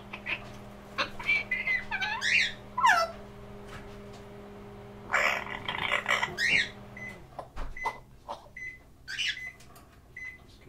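Pet parrots calling: gliding whistled calls and a harsh, noisy call, then a run of short, evenly spaced chirps near the end. A steady low hum runs underneath and stops about seven seconds in.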